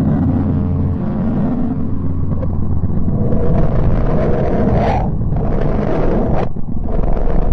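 Deep, rumbling, roaring drone of a space 'planet sound' with a steady low hum beneath. It thins out briefly about five seconds in and shifts again about a second and a half later.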